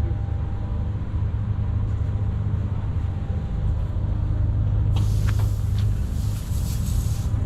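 Steady low engine-like drone, joined about five seconds in by a loud hiss with a few short clicks that stops near the end.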